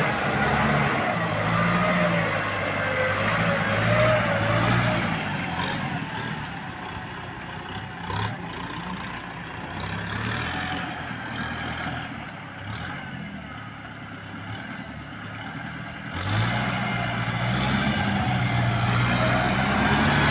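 Tractor engine running while plowing. It drops quieter for several seconds in the middle and comes back up loud suddenly about sixteen seconds in.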